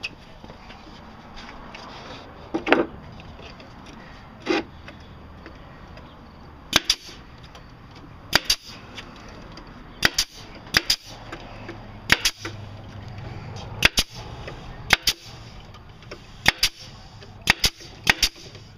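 Staple gun firing staples into seat wood: sharp snaps every one to two seconds, often in quick pairs, after two duller knocks early on.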